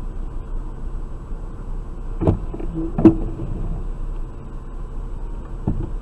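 Steady engine and road rumble heard inside a moving car, picked up by a dashcam, with two sharp knocks about two and three seconds in and a lighter one near the end.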